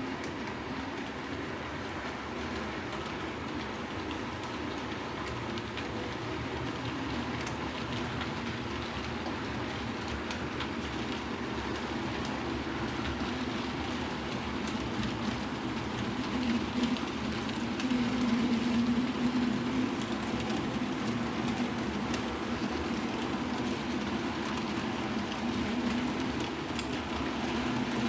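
Hornby model trains running on the layout track: a steady electric-motor hum with light wheel clicking over rail joints. The hum swells briefly about two-thirds of the way through, as a train passes closer.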